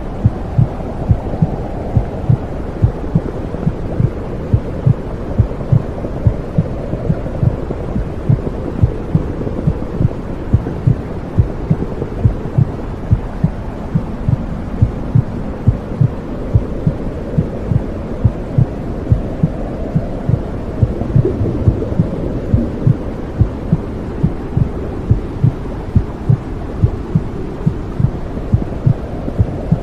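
Womb sound: a steady low whooshing noise with a regular heartbeat thumping through it, a couple of beats a second.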